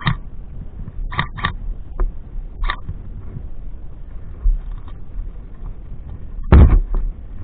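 Short sharp pops of airsoft gun shots, one at a time and once as a quick pair, over a steady low rumble of wind on the microphone. A much louder, deeper knock comes near the end.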